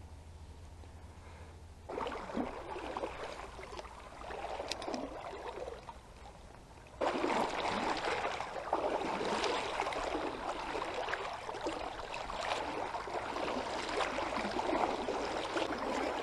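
Shallow river water rushing and splashing. It is quiet for the first two seconds, comes in softer, then gets louder and fuller from about seven seconds in.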